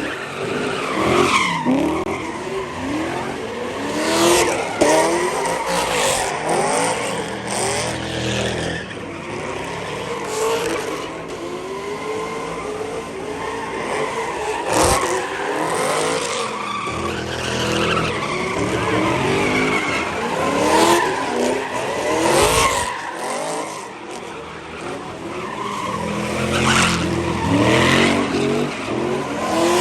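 Muscle car engines revving hard again and again, pitch climbing and falling with each rev, with tyres squealing as they spin. There are a few sharp bangs along the way.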